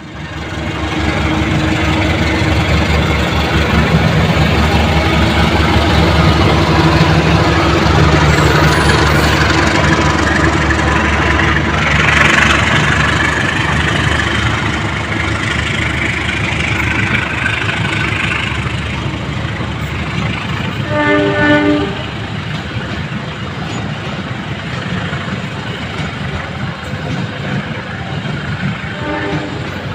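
Train running on the rails with a steady rumble of wheels and cars. Its horn sounds once for about a second about two-thirds of the way through, and briefly again near the end.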